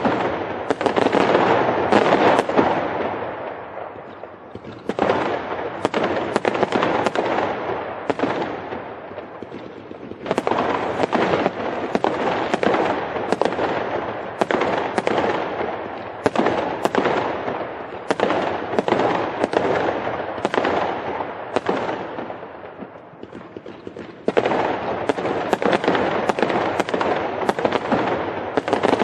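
Fireworks crackling densely: many sharp small bangs a second in a continuous run, easing off about four seconds in and again around twenty-two seconds, then picking back up.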